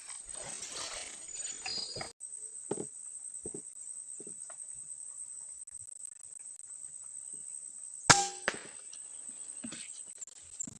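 Steady high-pitched insect drone with faint scattered ticks, broken about eight seconds in by a single sharp, loud crack with a short ringing tail: an air rifle shot.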